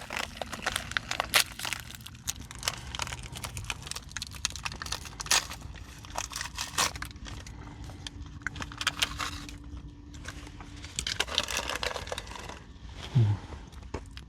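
Packaging being handled: crinkling and rustling of wrappers, with scattered clicks and taps.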